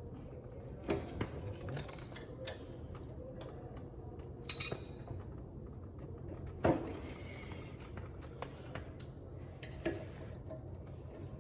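Scattered metallic clinks and knocks of hard objects being handled, with one short loud hiss about four and a half seconds in and a softer, longer hiss a couple of seconds later.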